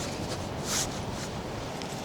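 Steady hiss of heavy rain and rushing water, with a few brief rustling scuffs on top, the clearest about a second in.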